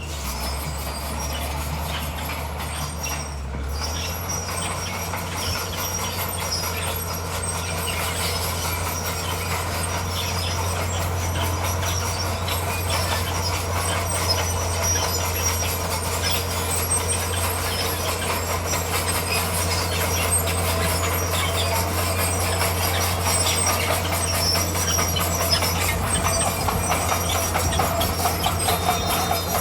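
Crawler bulldozer's diesel engine running steadily while its steel tracks clank and rattle over stone. The engine note shifts about four seconds in.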